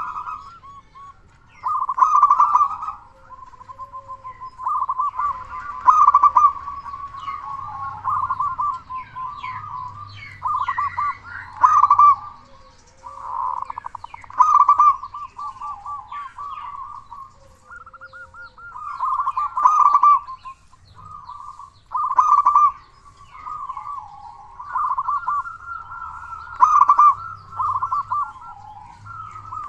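Zebra dove (perkutut) cooing: loud rolling, trilled coo phrases repeat about every two to three seconds, with fainter cooing between them.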